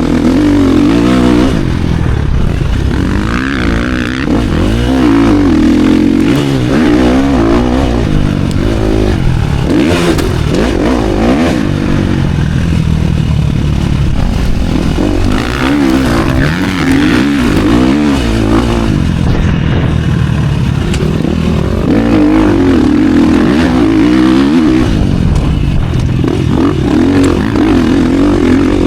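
Motocross bike engine revving up and down over and over, its pitch rising and falling as the throttle is worked around the track.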